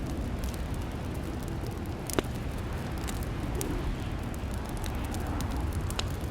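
Fireplace fire crackling over a steady low rumble, with scattered small pops and one sharper pop about two seconds in.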